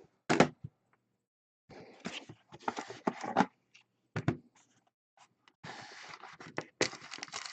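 Irregular crinkling, scraping and clicking of plastic wrap and cardboard as a box of football trading cards is opened, in short spurts with brief pauses between.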